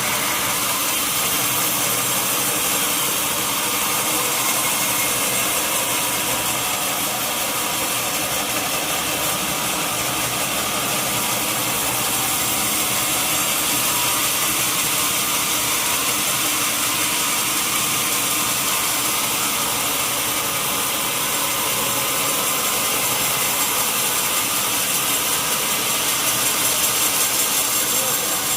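Sawmill saw running through a mahogany log, giving a loud, steady noise that swells a little near the end.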